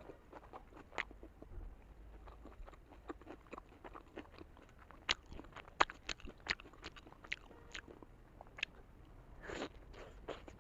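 Close-up chewing and biting of a large steamed vegetable momo (dumpling): irregular wet mouth clicks and smacks, with a short louder rush of breath or slurping near the end.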